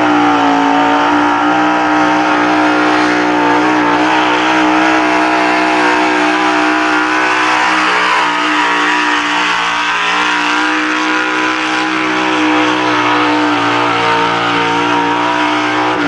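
Pulling truck's engine held at high revs under load during a pull, its pitch staying steady throughout.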